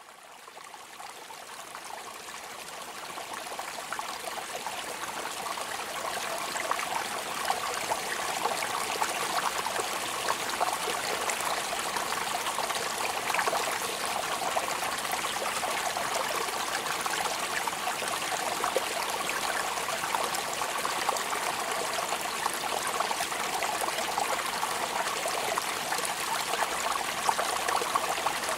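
Steady rain falling, an even rush of countless drops, fading in over the first several seconds and then holding steady.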